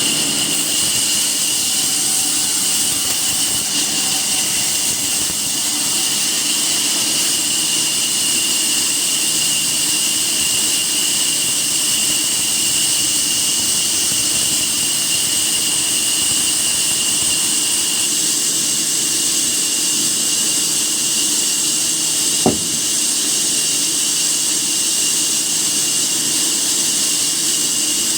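A woodworking machine running steadily, a constant high whine over a hiss, with one sharp click about 22 seconds in.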